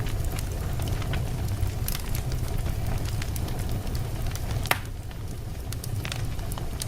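Logs burning in a fireplace: a steady low rumble of flames with scattered sharp crackles, and one louder pop nearly five seconds in.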